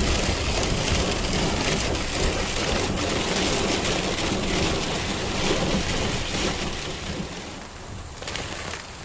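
Heavy rain pouring down with a low rumble underneath; it eases off in the last couple of seconds.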